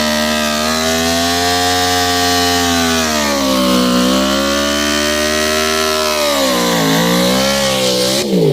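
Yamaha R1 sport bike's inline-four engine running at high revs, its pitch sagging and climbing back twice, then falling away sharply near the end.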